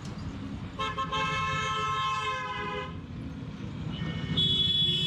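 Vehicle horns honking in traffic: one horn is held for about two seconds, then a shorter, higher-pitched horn sounds near the end. Both sit over a steady low rumble of engine and road noise.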